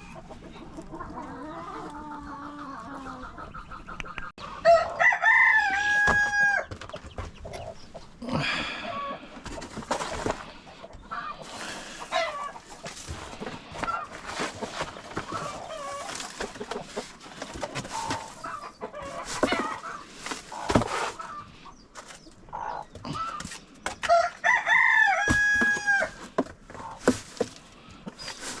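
Rooster crowing twice, about five seconds in and again near the end, each crow ending in a long held note. Hens cluck in short calls between the crows.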